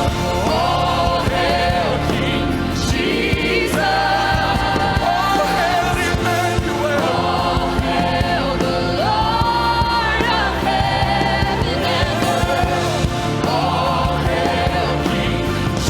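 Live worship band and singers performing a gospel-style praise song, with several voices singing held, sustained notes over steady bass and keyboards.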